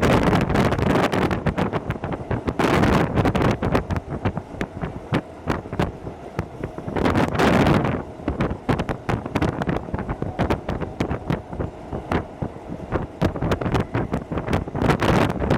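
Hokuso Railway 7260 series electric train running at speed, heard from inside the car: a steady rush of running and wind noise with rapid rattling clicks from the wheels and rails, swelling louder in several surges.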